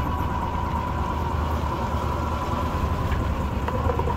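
Rented golf cart driving along, a steady low rumble with a faint whine that fades about a second in.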